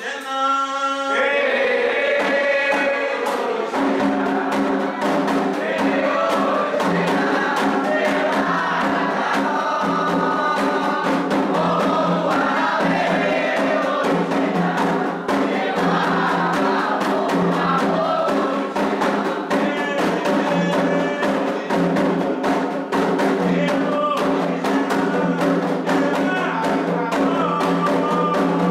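Candomblé toque for Omolu: call-and-response singing over hand drums. A lone voice leads at first, then from about four seconds in the chorus and rapid, dense drumming join in.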